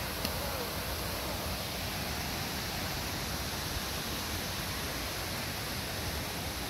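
Steady rush of falling water from the Crabtree Falls cascades, an even hiss with no let-up.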